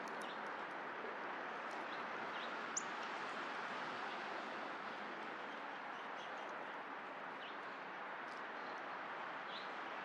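A few short, scattered bird chirps over a steady background hiss, with one sharper, louder chirp just under three seconds in.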